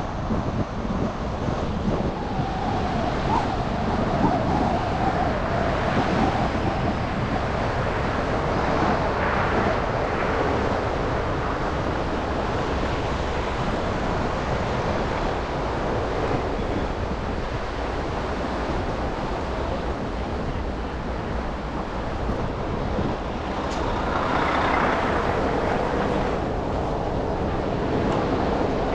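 Steady traffic and road noise from a car driving on snowy city streets: a continuous hiss and rumble of tyres and passing vehicles. A louder passing swell comes near the end.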